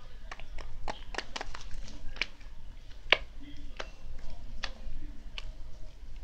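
Slime being handled: irregular sharp clicks and pops as it is pressed and stretched.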